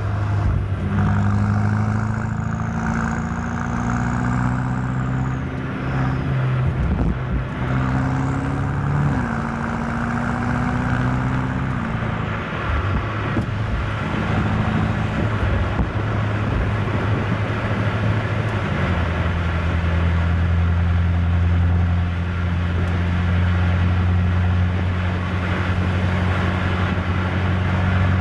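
BMW M8 Competition's twin-turbo V8 driving along, its note rising and dropping in steps through gear changes over the first dozen seconds. After a rougher stretch it settles into a steady low drone.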